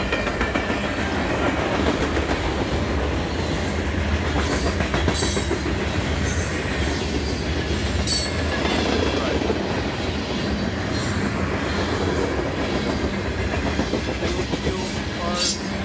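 Freight train of tank cars and hoppers rolling past close by, steel wheels clattering over the rail joints with a steady low rumble. Short high metallic squeals and clinks come now and then.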